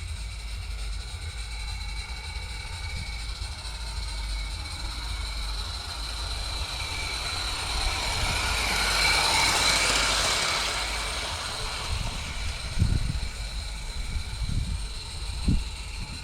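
Small live-steam garden-railway locomotive, a Roundhouse Lady Anne, running on its track. Its steam hiss and running noise swell up as it comes close, peaking about two-thirds of the way in, then fade. A steady low rumble runs underneath, and a few short low thumps come near the end.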